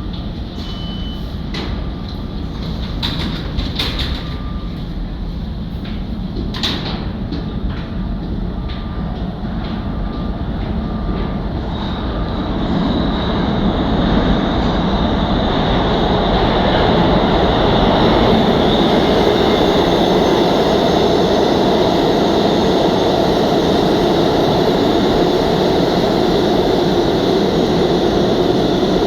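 R211A subway car running through the tunnel: a steady rumble of wheels on rail with a few clanks and knocks. About halfway through it grows louder as the train picks up speed, then holds a loud, steady run with a thin high whine over it.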